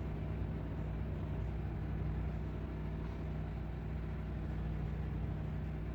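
Mini truck engine running steadily at an even, unchanging pitch.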